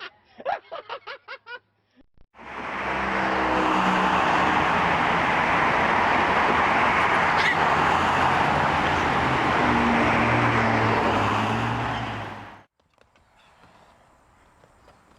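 A vehicle running, with an engine's low hum under a loud steady rush of noise, for about ten seconds before cutting off abruptly. Laughter comes just before it.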